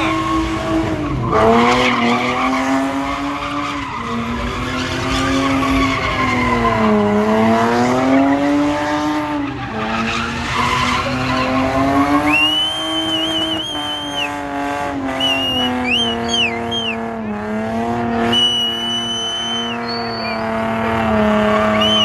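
A car engine held at high revs, its pitch dipping and climbing again several times, while the tyres squeal from about halfway on in long squeals and short chirps, as in a burnout or drift.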